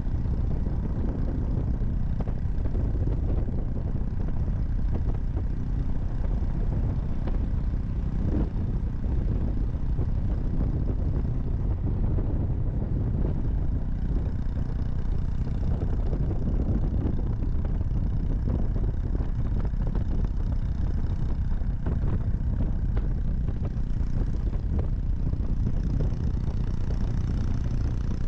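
Honda Monkey 125's single-cylinder four-stroke engine running steadily while being ridden.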